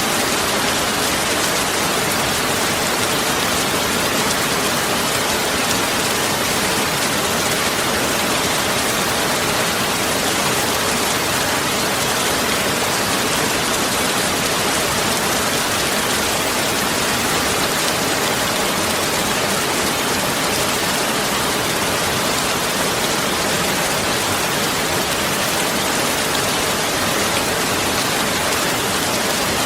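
Heavy rain falling steadily, a dense even hiss of downpour with no breaks.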